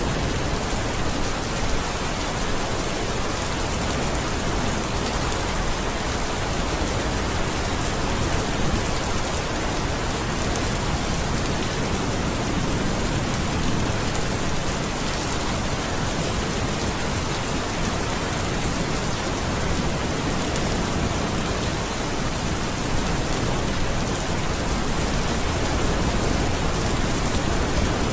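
Steady rain falling on surfaces, an even dense patter of drops without a break.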